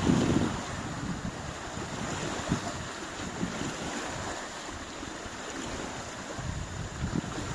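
Wind-driven lake waves washing onto the shore in a storm, a steady rushing with irregular surges. Wind buffets the microphone in low gusts, hardest right at the start.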